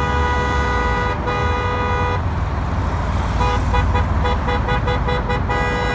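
Vehicle horn honking: a long blast with one short break, then a run of quick toots, about four or five a second, then another long blast near the end. A steady low engine and traffic rumble runs underneath.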